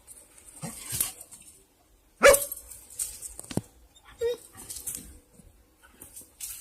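A dog barking several times in short separate barks, the loudest about two seconds in.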